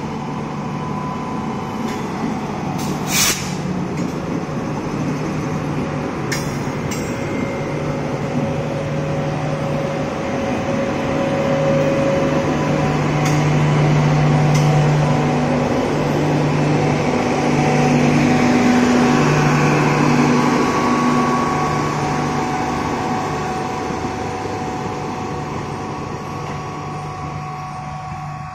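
Indian Railways WAP-7 electric locomotive hauling a passenger express past: a steady electric hum over wheels rumbling on the rails, loudest as the locomotive goes by, then the coaches rolling past and slowly getting quieter. A single sharp click about three seconds in.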